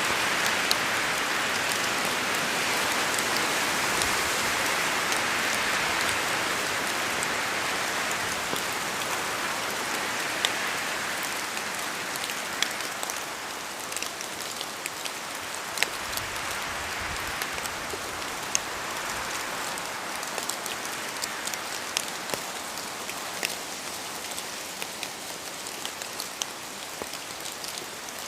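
Steady rain falling as a dense hiss, with many sharp individual drops striking close by. The hiss is heaviest over the first several seconds, then eases a little.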